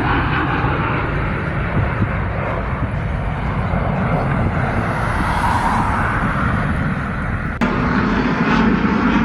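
Fighter jet engine noise overhead: a loud, steady rushing rumble that swells about midway. Near the end it breaks off abruptly at an edit into another stretch of lower jet rumble.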